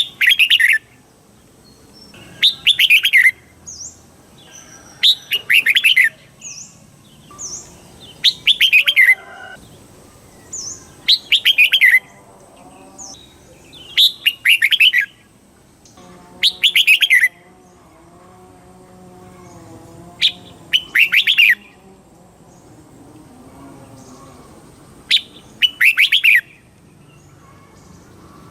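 Red-whiskered bulbul singing: about eight short, loud, quick phrases of tumbling notes, a couple of seconds apart, with small high chirps between them.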